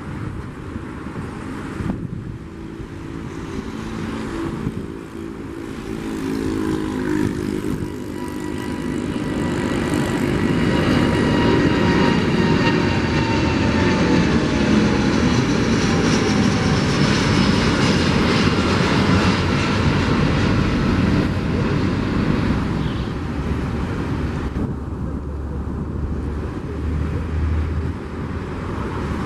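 Airbus A330-900's Rolls-Royce Trent 7000 turbofan engines at takeoff power: a jet roar that builds as the airliner comes closer, is loudest for several seconds as it passes, then fades. Whining engine tones drop in pitch as it goes by.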